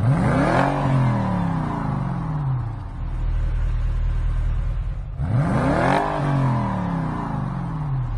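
Car engine revving up quickly and then winding down slowly, twice, the second rev starting about five seconds in, over a steady low rumble.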